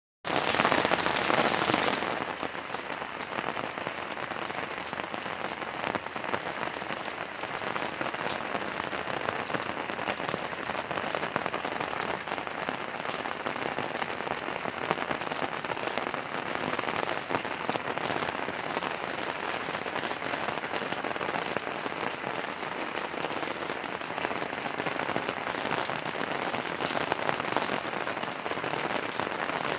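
Steady rain falling, a dense even patter of drops. It is a little louder for the first two seconds, then holds steady.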